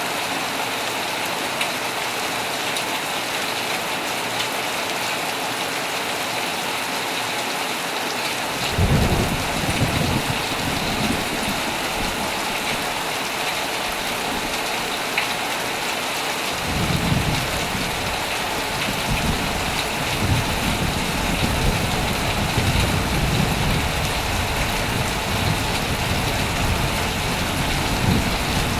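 Heavy rain beating steadily on a tent, with rolling thunder: one rumble about a third of the way in, and another that starts just past the middle and rolls on in waves to the end.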